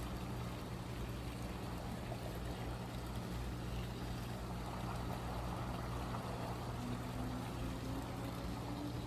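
Steady low hum of a motor running somewhere nearby, with a noisy rushing layer over it and a faint tone slowly rising in pitch near the end.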